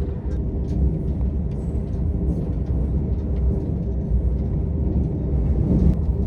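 Amtrak California Zephyr passenger train rolling along: a steady low rumble with a few faint clicks.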